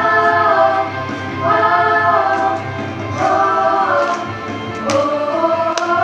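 Choir singing long held wordless phrases as a song's intro, about one phrase every one and a half seconds, over a steady low accompaniment. A few sharp taps come near the end.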